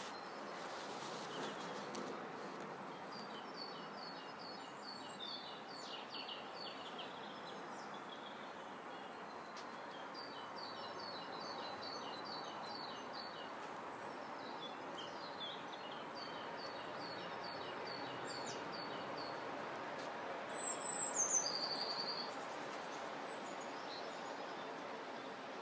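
Garden birds singing: runs of short, repeated high chirps over a steady outdoor background hum, with one louder, closer call near the end.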